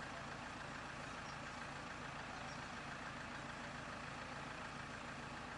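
Off-road 4x4 truck engine idling steadily, a low even running sound with a broad hiss over it.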